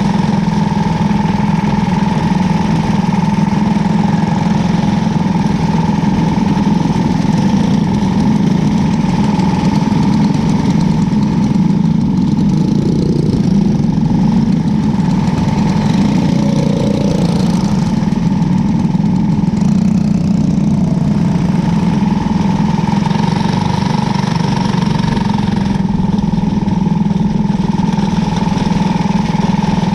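A cadet-class winged racing car's engine running loud and steady at a near-constant pitch, heard from on board the car.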